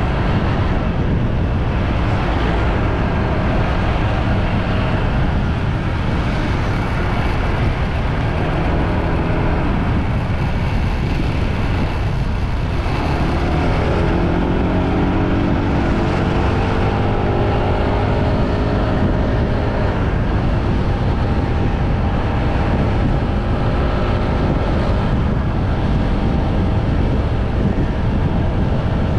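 Motorbike engine running under steady, heavy wind rush from riding. About halfway through, the engine note climbs as the bike accelerates, then settles into a steady cruise.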